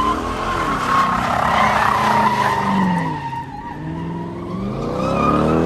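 Car engine revving up and down several times while the tyres squeal steadily against the pavement, the sound of a burnout or donuts.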